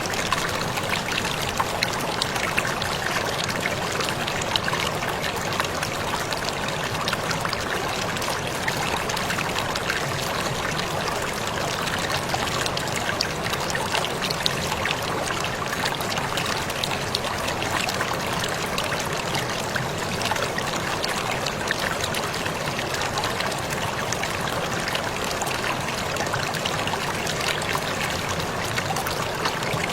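Waterfall running steadily: an even rush of falling water with many small splashes and drips.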